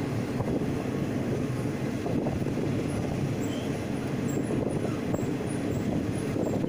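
Train running along the track, heard from a carriage window: a steady low rumble of wheels on rails.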